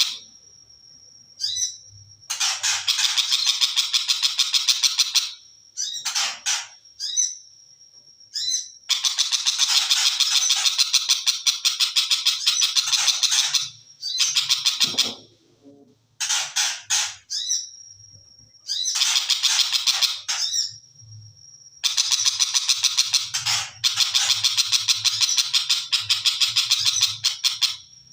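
Long-tailed shrike (cendet) singing in bursts of rapid-fire chattering notes, each phrase lasting one to three seconds, separated by pauses and thin, steady, high whistled notes.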